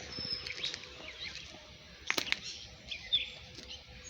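Small birds chirping repeatedly, with a couple of sharp clicks about two seconds in.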